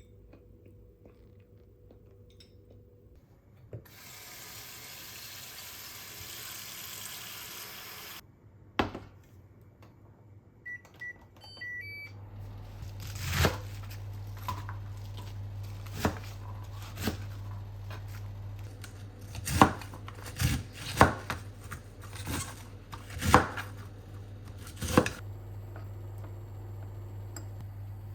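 Kitchen work: a tap runs for about four seconds, then a few short electronic beeps as an appliance is set, and its steady low hum carries on while dishes and utensils clink and knock now and then.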